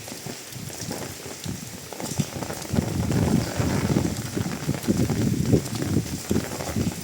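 Rain falling, with a dense, close patter of drops that gets louder about three seconds in.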